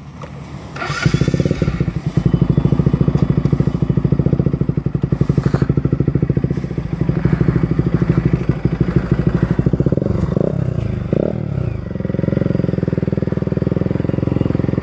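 Bajaj Pulsar NS200's single-cylinder engine through an Akrapovic aftermarket exhaust, opening up about a second in and pulling under load with a fast, even pulsing exhaust note and a deep bass sound. About ten seconds in the pitch briefly drops and rises again before it settles.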